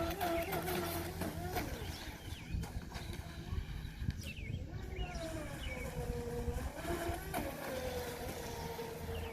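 Volantex Vector Pro Angry Shark RC boat's brushless motor running on 4S, a whine whose pitch rises and falls with the throttle several times and holds steady near the end.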